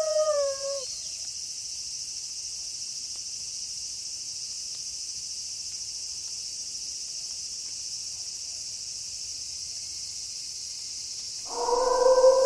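A wolf howl slides down in pitch and ends within the first second, leaving a steady chorus of night insects such as crickets. Near the end another wolf howl begins, held on one pitch with several overtones.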